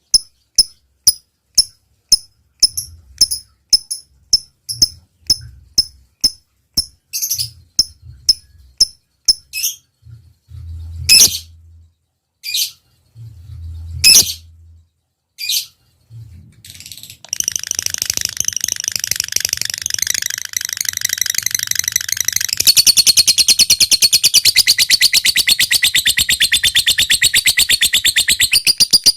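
Lovebird calling in evenly spaced sharp chips, about three a second, then a few louder single calls, breaking a little past halfway into a long, rapid, unbroken chattering trill that grows louder. This is the lovebird's 'ngetik' ticking leading into a long 'ngekek'.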